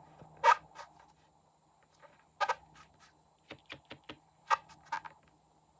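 Slime being pressed and pulled by hand, giving sticky popping clicks at irregular intervals, with a quick run of several clicks past the middle.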